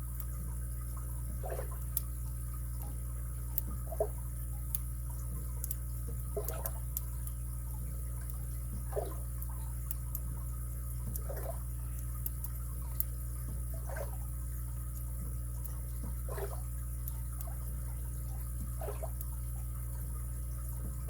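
Faint clicks and scratches of a lock pick working the pin stack of a padlock under a tension wrench. Under them runs a steady low hum, and a soft regular tick comes about every two and a half seconds.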